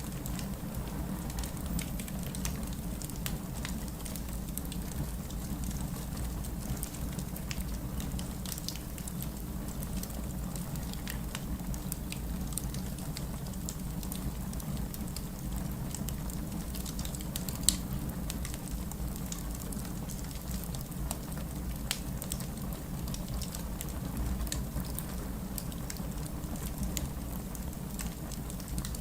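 Fireplace crackling with scattered small pops over the steady patter and low rumble of rain, with one sharper pop a little past the middle.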